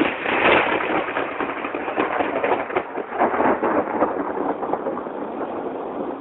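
A close thunderclap: a sudden loud crack that breaks into crackling and rolls on, fading slowly over several seconds.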